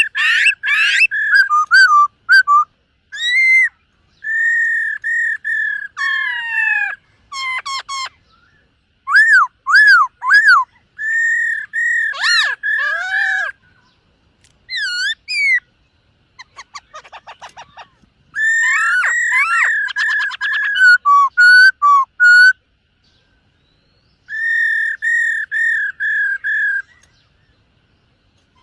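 Black-throated laughingthrush singing loud, clear whistled phrases. The song mixes runs of quick repeated notes on one pitch with arching up-and-down notes and a brief fast trill, separated by short pauses.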